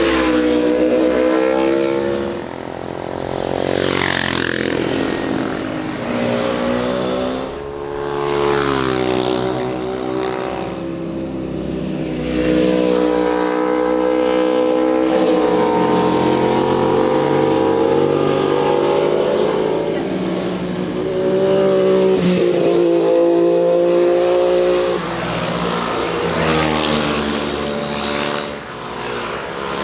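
Motorcycles passing one after another through a bend, each engine rising and falling in pitch as it revs up and goes by.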